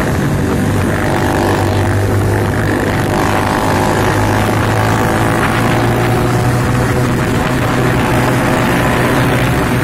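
Yamaha Vega underbone motorcycle's single-cylinder four-stroke engine running steadily while cruising, heard from the rider's seat together with wind and road noise.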